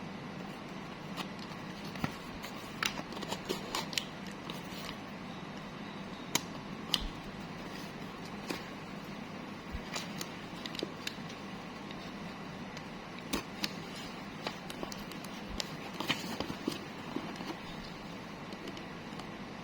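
Irregular small clicks and rustles of objects being handled, over a steady room hiss.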